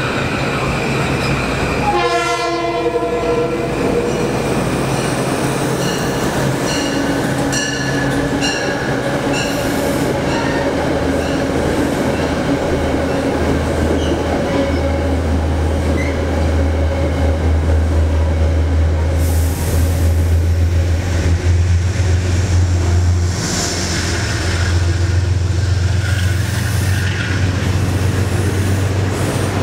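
Kawasaki M8 electric multiple-unit train pulling into a station, sounding a short horn blast about two seconds in. A run of short, evenly spaced high tones follows, and then the train's steady low electrical hum rises and holds as it comes alongside the platform.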